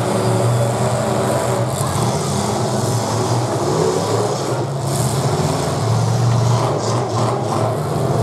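Full-size demolition derby cars' engines running loud through open upright exhaust pipes as the cars drive and push in the arena.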